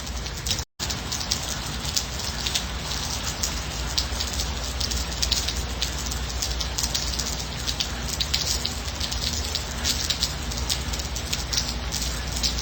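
Steady light rain falling, with many individual drops ticking through the even hiss. The sound cuts out for a split second just under a second in, then resumes.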